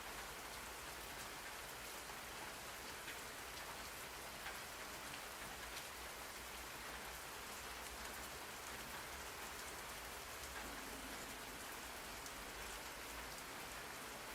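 Steady rain falling on a surface, an even hiss with faint scattered drops.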